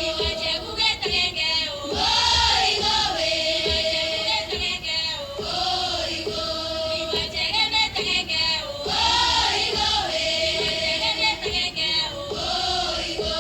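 Music with a choir singing, the same sung phrase coming round every three to four seconds.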